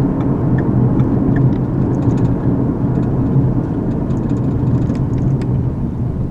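Car driving, heard from inside the cabin: a steady low drone of engine and tyre road noise, with a few faint light ticks. It eases off slightly near the end.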